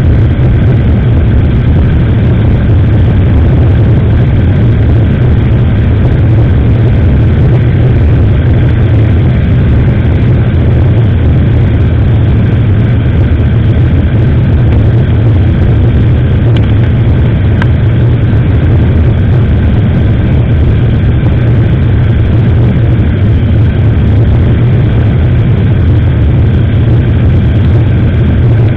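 Motorcycle riding on the road, heard on an action camera's microphone as a steady, loud low rumble that doesn't change.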